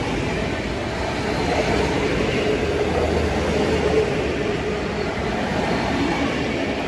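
A train running on the tracks: a steady rumble, with a faint whine held for a few seconds in the middle.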